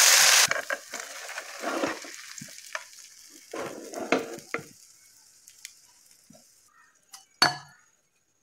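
Boondi batter sizzling loudly as it drops through a perforated steel ladle into hot oil, the hiss cutting off about half a second in. Then quieter frying, with the metal slotted ladle scraping and clinking against the pan as the fried boondi is scooped out, and one sharp knock near the end.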